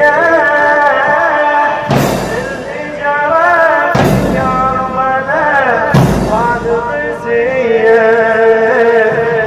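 A male radood chants a Shia mourning latmiya in a long, wavering melody. Three sharp strikes in unison, about two seconds apart, keep the beat; these are the zanjeel procession's chain strikes.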